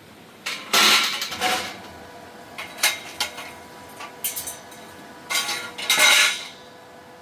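Metal pieces clattering and clinking in several short bursts. The loudest bursts come about a second in and again around six seconds in.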